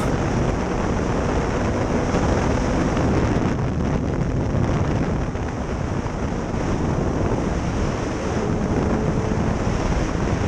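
Steady wind rush over the microphone, with a faint engine hum underneath.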